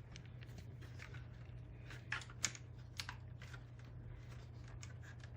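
Scattered light clicks and taps of a plastic hard drive enclosure being pried apart with a tool, the loudest pair about two and a half seconds in, over a steady low hum.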